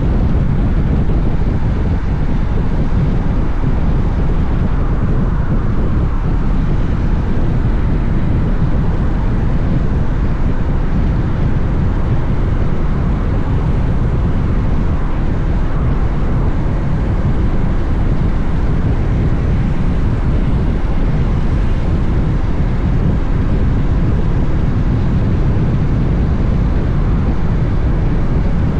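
Honda X-ADV motorcycle riding at a steady speed: wind rushing over the camera microphone over a steady low drone of engine and road noise.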